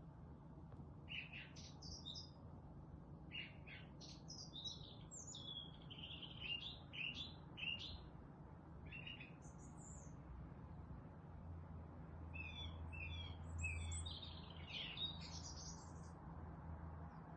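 Songbirds chirping and singing in a run of short calls and trills, pausing briefly just after the middle, over a faint low hum.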